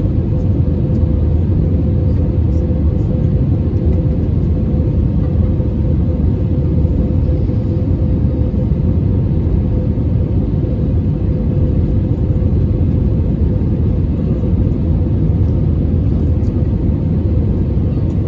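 Steady cabin rumble of an Airbus A320neo airliner in flight on approach: engine and airflow noise with a steady mid-pitched hum running through it.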